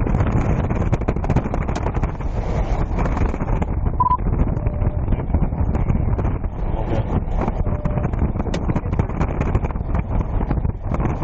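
Wind buffeting the microphone, a loud, fluttering low rumble, with a short high beep about four seconds in.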